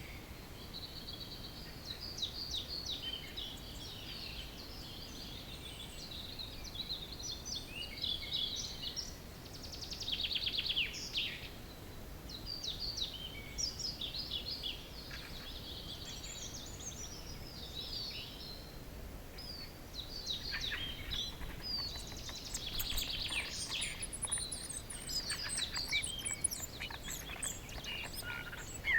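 Dawn chorus of several songbirds singing at once, overlapping phrases and chirps throughout, busier from about two-thirds of the way in, over a faint steady background rumble.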